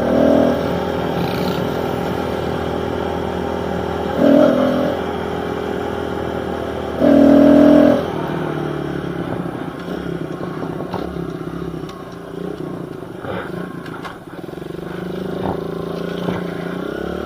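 Small pit bike engine running as the bike is ridden, with three short louder bursts in the first half, then the engine note falling away and climbing again near the end as the throttle is eased off and opened.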